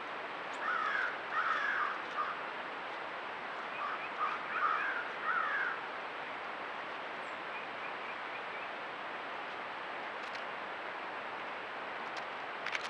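A bird giving harsh, caw-like calls in two series, one about a second in and one about four seconds in, over a steady background hiss.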